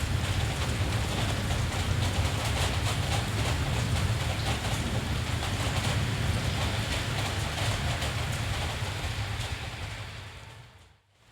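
Steady rain with a low rumble beneath it. About ten seconds in, the whole sound fades out to a moment of near silence and is starting to come back near the end.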